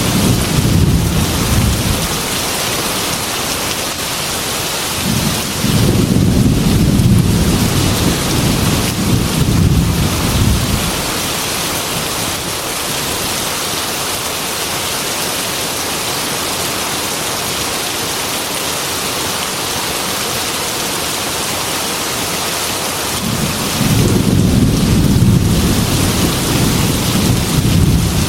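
Heavy rain pouring with a steady hiss, while thunder rumbles low three times: at the start, for several seconds from about five seconds in, and again near the end.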